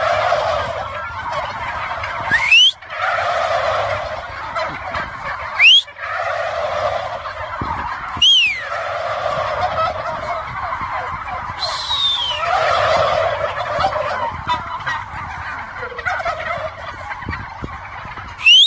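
A flock of turkeys gobbling continuously. Loud, short, rising whistle-like glides cut in every few seconds.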